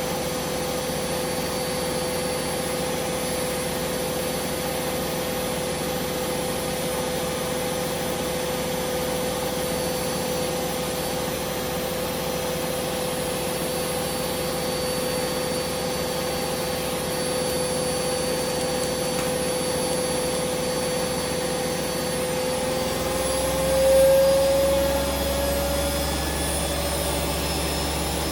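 Hoover Vision Dynamic washing machine in a spin, its motor and drum giving a steady high whine. Near the end the whine rises in pitch and swells briefly, and a low hum sets in beneath it.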